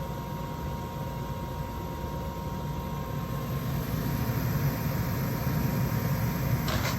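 Gas furnace running: a steady rushing of the lit burners and the draft fan, growing a little louder in the second half.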